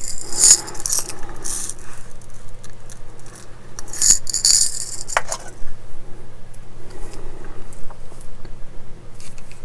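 Tiny metal model-kit screws dropping and rattling on a hard desk in a few brief clatters, with a sharp tick about five seconds in.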